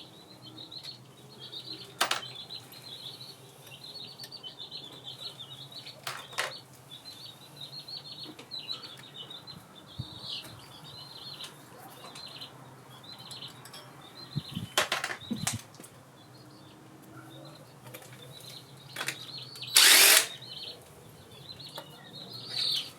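Small birds chirping steadily in the background while metal tools clink a few times on engine fasteners. About twenty seconds in comes the loudest sound: a short, loud half-second burst of a power tool, as stuck bolts are worked loose on the engine.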